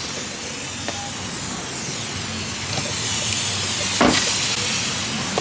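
Febreze fabric spray hissing as it is sprayed through the car's interior, louder from about three seconds in, with a single thump about a second later.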